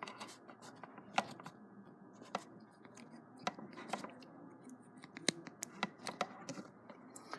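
Faint, irregular small clicks and scratching of copper wire being looped around a plug's screw terminal by hand, a tick every second or so.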